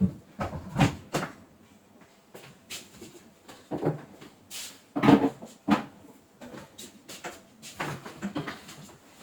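Irregular knocks and clicks, a dozen or so, spaced unevenly.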